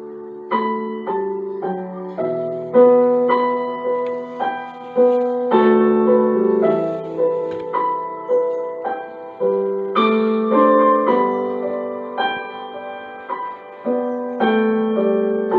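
Background music: a slow, gentle piano melody, single notes and chords struck and left to fade.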